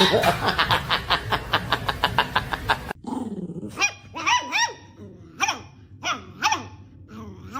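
Dog barking: a fast run of short barks for about three seconds, then after an abrupt cut, separate high-pitched yips about a second apart.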